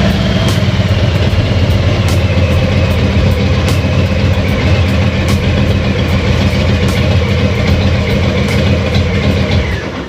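Harley-Davidson Road Glide's V-twin engine running steadily at idle with a deep rumble, then shut off near the end.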